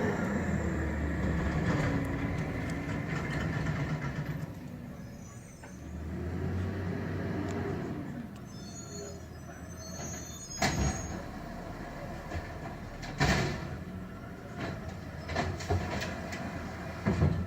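CNG Peterbilt garbage truck's engine running, rising and falling once about six seconds in, then three sharp metal bangs a few seconds apart as the truck works its route.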